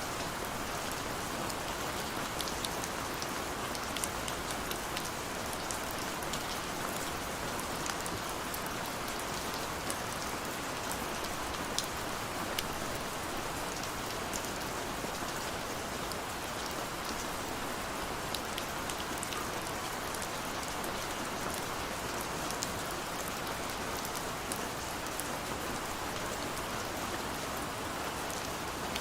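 Steady rain falling evenly, with many small, sharp drop ticks scattered through it.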